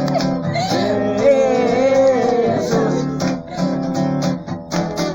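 Acoustic guitar strumming under a voice holding a long, wavering sung line for the first half; then the guitar strums alone, in steady regular strokes.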